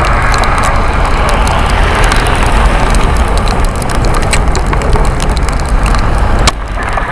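Wind buffeting the bike-mounted camera's microphone as the Busetti Vortex electric bike rides fast through snow, a dense rushing rumble with scattered clicks and rattles. The level drops abruptly about six and a half seconds in.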